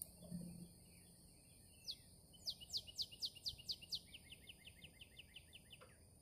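A songbird singing one phrase: a run of sharp notes each sweeping down in pitch, then a quicker, lower trill that ends with a drop. Two steady high insect-like tones run under it, and a short low sound comes just at the start.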